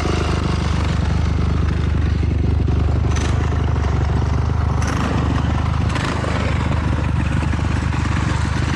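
Steady, loud low rumble of a Honda CRF450R dirt bike's engine running, with three brief rushes of noise over it.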